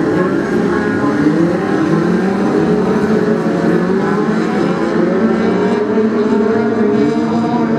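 A pack of BriSCA F2 stock cars racing, several engines running together at once, their pitches rising and falling with the throttle as they lap.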